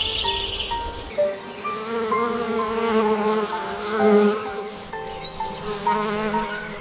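A bee buzzing, its pitch wavering up and down as it flies about, from about a second and a half in until near the end. Soft background music with sustained notes plays under it.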